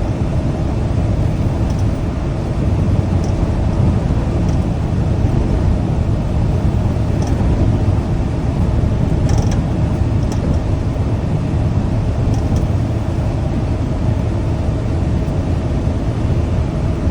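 Semi-truck driving down the highway: a steady low engine and road rumble heard from inside the cab, with a few faint ticks about halfway through.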